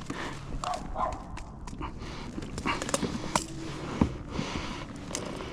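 Irregular knocks and clicks from handling a landed redfish and fishing gear in a kayak, while the fish is being unhooked.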